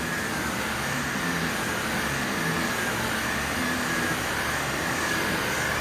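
Vacuum cleaner running steadily under strong suction, a rush of air with a high whine.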